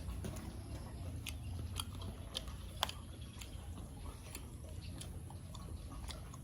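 A person chewing food, with scattered sharp clicks and crunches over a low steady rumble.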